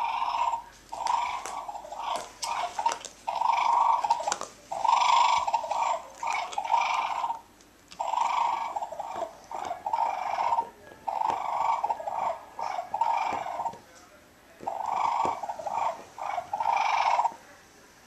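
A dog growling in repeated rough bursts, about one a second and often in pairs, while worked up over a toy ball, with sharp clicks of scuffling between them.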